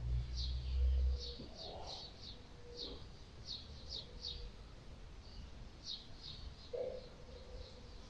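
A small bird chirping: quick series of short, high chirps, a pause of about a second and a half in the middle, then more chirps near the end. A low rumble is heard in the first second or so.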